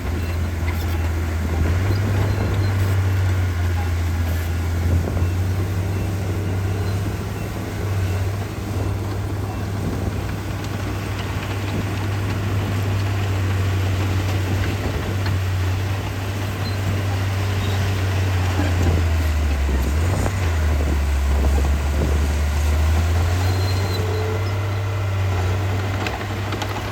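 Heavy diesel engine of earthmoving machinery running hard with a deep steady drone. It drops lower in pitch about two-thirds of the way through, then rises again near the end.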